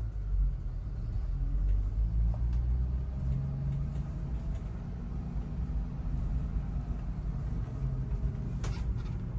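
1976 Chevrolet Blazer's engine running with a steady low sound, and a single short click near the end.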